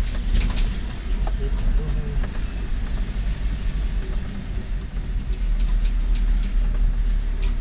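Vehicle driving along a road: a steady low rumble with scattered light clicks and rattles.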